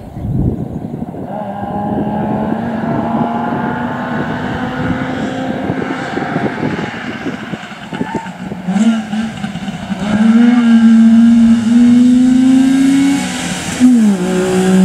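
Rally car's engine held at high revs as the car approaches. Its pitch dips and climbs back a few times in the second half, and it gets much louder from about ten seconds in as the car comes close.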